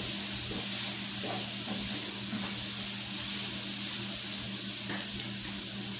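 Steady hiss with a low hum from the running kitchen stove, with a few faint knocks of cookware.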